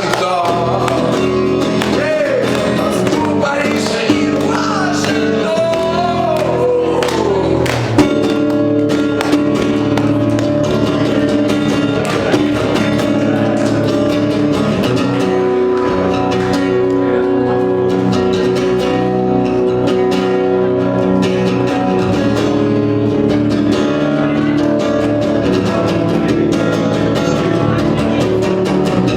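Live acoustic guitar strummed in a song, with a voice singing over it in the first several seconds, then the guitar carrying on alone in steady chords.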